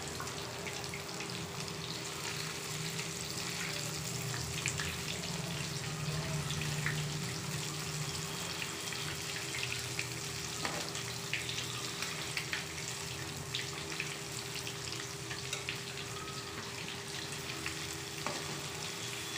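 Marinated chicken pieces deep-frying in hot oil in a large kadai on a low-to-medium flame: a steady sizzle, with a few scrapes and taps of a spatula turning the pieces.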